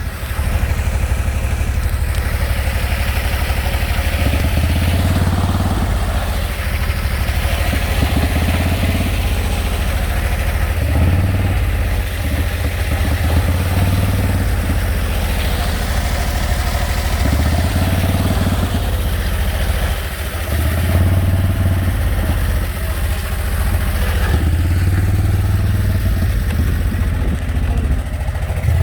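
Motorcycle engine running, the throttle opening and easing off every few seconds, with a noisy rush over it.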